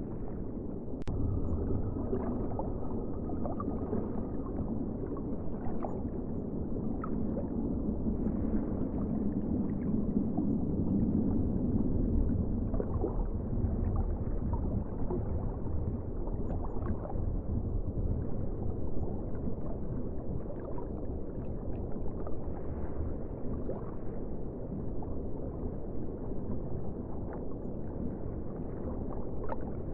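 Ocean water ambience: a steady, muffled low rush and gurgle of seawater that swells gently around ten seconds in, with faint scattered clicks.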